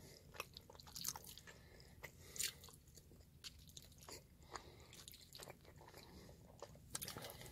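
Faint chewing and mouth smacks from a person eating, with small clicks scattered throughout and one louder click about two and a half seconds in.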